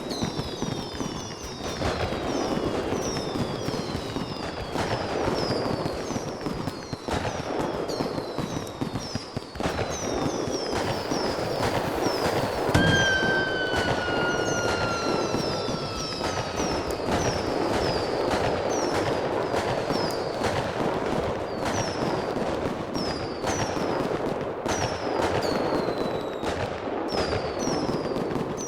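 Fireworks going off without pause: dense crackling and popping with many short whistles that fall in pitch, and one longer whistle sliding down from about 13 seconds in.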